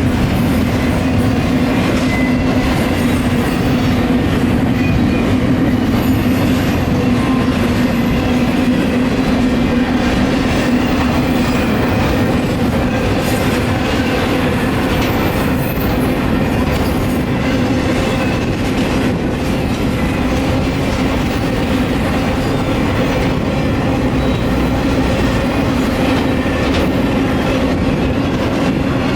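Union Pacific double-stack intermodal freight train rolling past at speed, its wheels clattering and rumbling steadily over the rails with a constant low hum.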